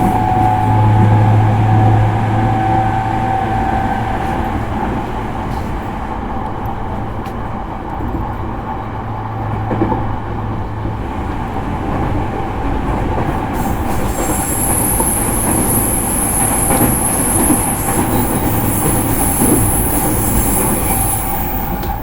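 JR East E231-series electric train heard from inside a motor car while running: steady rumble of wheels on rail with a low motor hum. About two-thirds of the way in, a high-pitched wheel squeal sets in and holds for several seconds.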